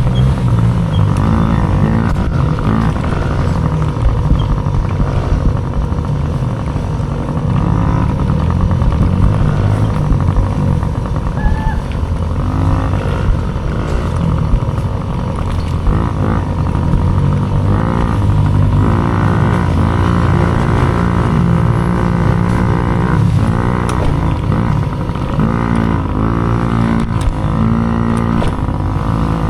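Dirt bike engine racing, revving up and dropping back again and again as the rider accelerates, shifts and backs off.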